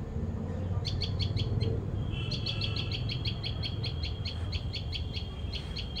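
Small bird calling with short, sharp high chirps: a quick burst of a few about a second in, then a long run of evenly spaced chirps, about four a second, over a thin steady high tone. A steady low rumble lies underneath.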